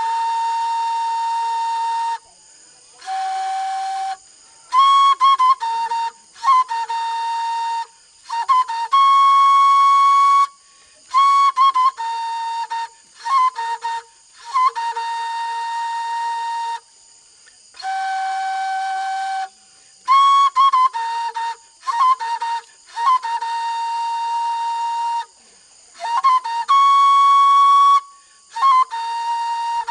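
A flute playing a slow melody of long held notes, each opened with a quick ornamental flick, with short pauses between phrases.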